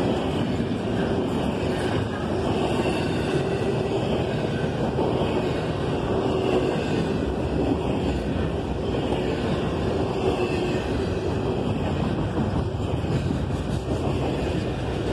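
Double-stack intermodal container well cars of a CSX freight train rolling past: a steady rumble of steel wheels on rail.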